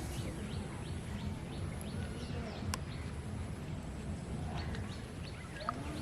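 Outdoor night-time animal chorus: many short, quick downward chirps and a steady high-pitched hum, over a constant low rumble.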